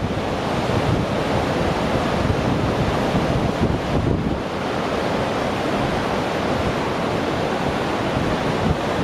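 Gullfoss waterfall's large volume of falling water rushing steadily, with wind buffeting the microphone in gusts during the first half.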